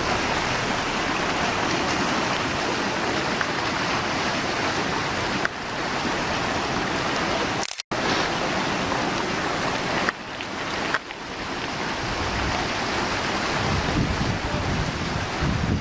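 Steady rushing noise, with no tones in it, that drops out for a split second about eight seconds in.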